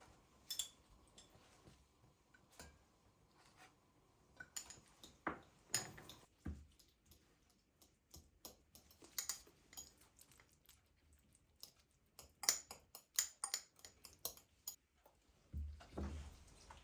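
Light clicks, taps and knocks of things being handled in a kitchen, irregular, with a quicker run of clicks about three quarters of the way through and a low thud near the end.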